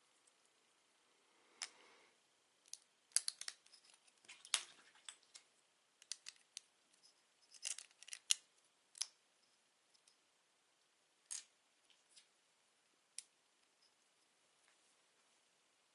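Lego bricks being handled and snapped together: a scattering of small sharp plastic clicks and taps at irregular intervals, with a soft rustle early on.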